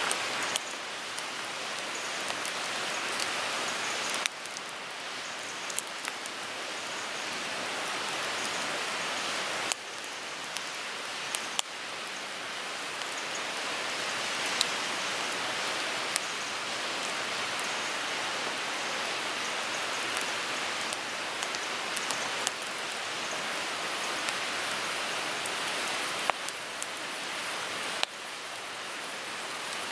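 Wood fire burning in a Picogrill 398 fire pit: a steady hissing crackle with scattered sharp pops, and the level drops abruptly a few times.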